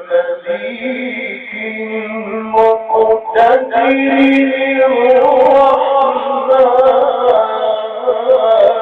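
A man reciting the Quran in the melodic tajweed style, drawing out long held, wavering notes.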